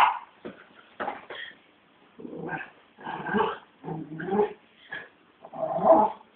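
Dog making a string of separate vocal noises, a loud sharp one at the very start and then longer ones about every second: worked up and carrying on after a shower.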